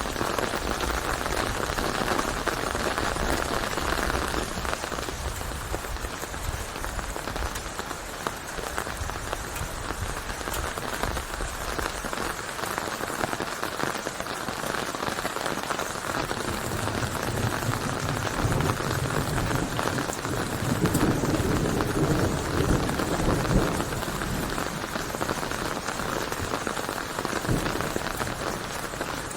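Steady rainfall, a continuous hiss of raindrops on surfaces, with a lower, heavier patch of the rain's sound swelling for several seconds past the middle.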